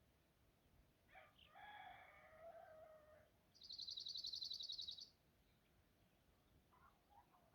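A rooster crowing once for about two seconds, followed by a small songbird's fast, high trill lasting over a second, with faint short bird calls near the end.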